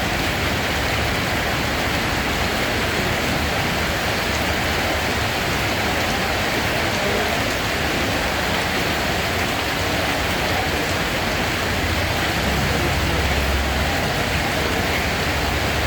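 Steady rain falling, an even hiss with no breaks, with a low rumble swelling briefly near the end.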